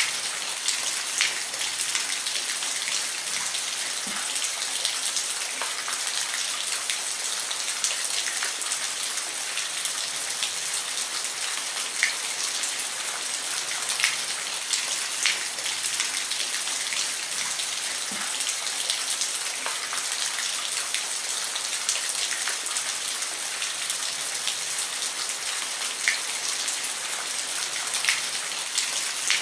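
Steady rain falling on a roof, a hiss with scattered individual drops ticking sharply through it.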